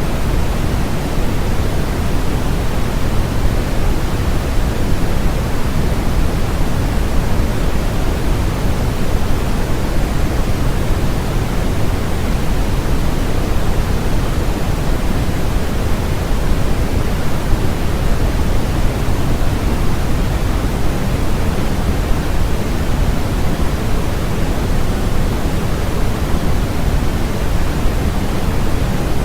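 Steady electronically generated noise: a loud, even hiss with no pitch or rhythm, heavier in the low end than a true white noise.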